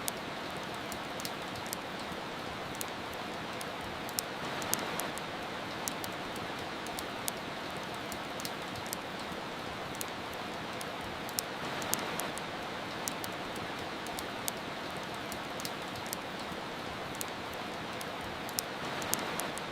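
Steady rain hiss mixed with frequent small, sharp, irregular crackles of a wood fire burning. The rain swells gently three times, about every seven seconds.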